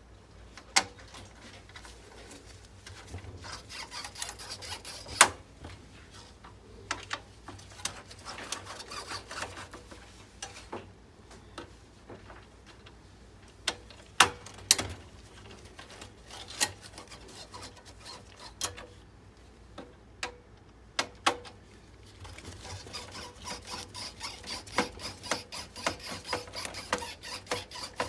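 Hands taking apart a desktop PC: scattered sharp clicks and knocks of plastic and metal parts, with stretches of scratchy rubbing a few seconds long.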